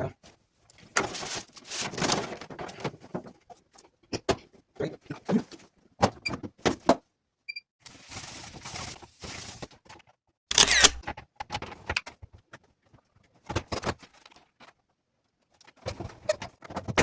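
Irregular clicks, knocks and short rustling bursts of handling.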